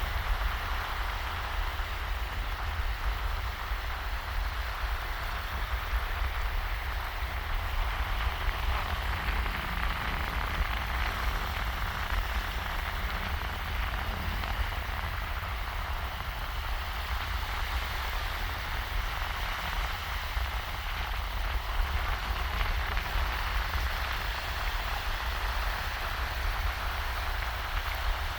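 Small, shallow waves washing over a sandy beach: a steady, even hiss of moving water, with a low rumble of breeze underneath.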